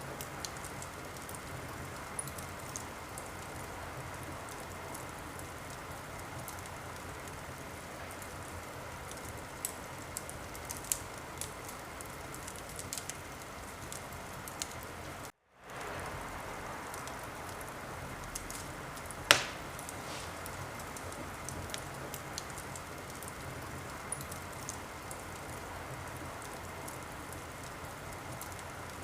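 Wood fire in a fireplace burning with a steady hiss and scattered small crackles, and one sharp, loud pop about two-thirds of the way through. About halfway the sound cuts out completely for a moment, then fades back in.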